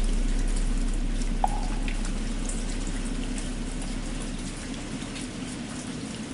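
Steady rain falling, with scattered drip plinks, over a low hum that slowly fades away.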